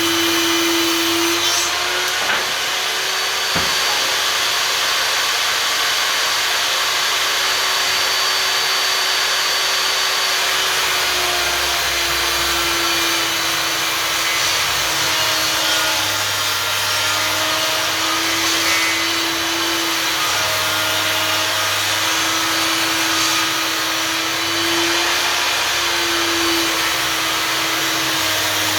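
Einhell table saw running with a steady motor whine over the noise of the blade. Its pitch sags and recovers several times as the blade cuts through a 5 cm-thick wooden board.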